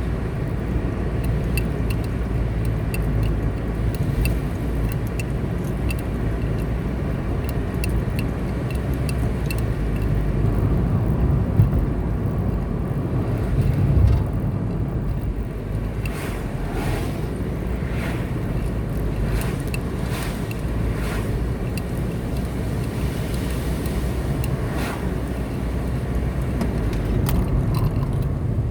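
A car driving along a road: a steady low rumble of engine and tyres, with faint regular ticking in the first third and several brief swishes past the car in the second half.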